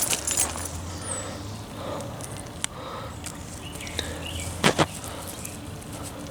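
Weeds such as bull thistle being pulled by hand, with leaves and stems rustling and crackling, and two sharp snaps in quick succession about two-thirds of the way through.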